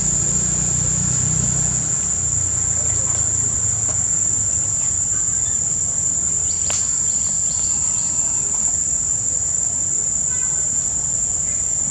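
Steady, high-pitched drone of insects singing, unbroken throughout, with a low rumble in the first couple of seconds and a single sharp click near the middle.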